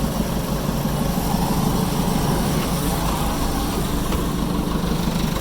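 Diesel engine of heavy equipment running steadily, with an even low pulsing throb.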